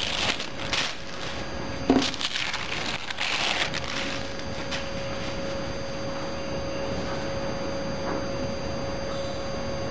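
A few short rustling, crackling handling noises over the first few seconds. Then a steady, even hum with one clear pitch.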